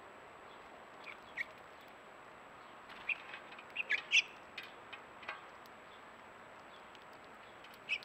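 Short, sharp chirps from small songbirds, a couple about a second in, a quick run of several around the middle and one more near the end, over a steady hiss.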